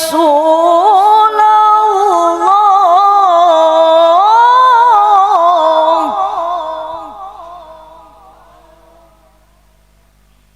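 Female Quran reciter in melodic tilawah style, holding one long phrase and ornamenting it with wavering turns of pitch. The voice stops about six seconds in and an echo tail dies away over the next few seconds.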